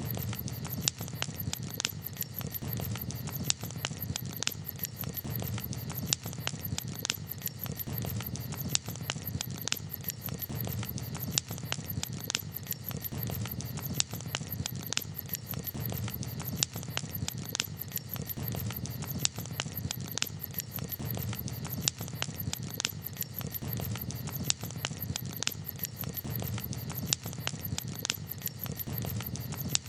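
Wood campfire crackling, with sharp pops every second or so among many smaller crackles over a steady low background.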